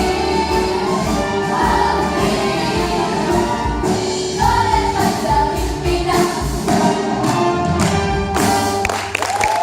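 A song sung by several voices, like a choir, over instrumental accompaniment; the music breaks off about nine seconds in.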